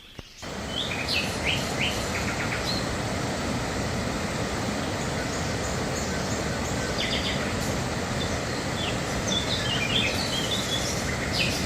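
River water rushing steadily over a small waterfall, with birds chirping briefly again and again over it.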